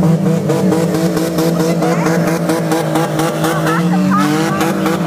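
Several demolition derby cars' engines running and revving together, with rising whines of wheels spinning on the packed-snow track and sharp knocks throughout.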